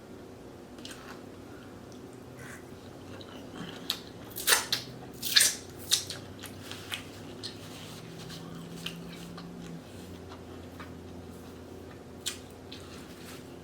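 Close-miked eating sounds from a seafood boil: bites and chewing, with a cluster of sharp, crisp snaps and smacks about four to six seconds in and a few softer ones later, over a faint steady room hum.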